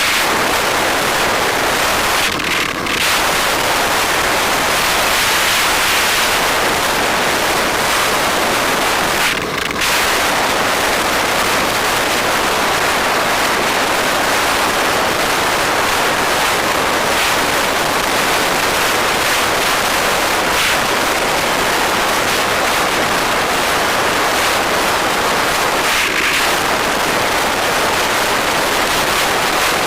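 Steady wind noise buffeting the microphone of a camera on a moving bike, with two brief dips about two and a half and nine and a half seconds in.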